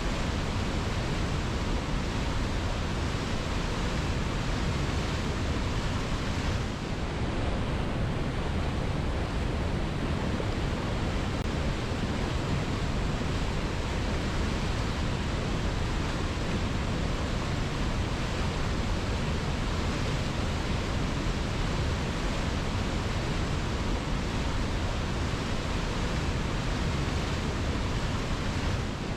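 Waterfall: water pouring and splashing in a steady, unbroken rush that is heavy in the low end, with a brief dip in the hiss about seven seconds in.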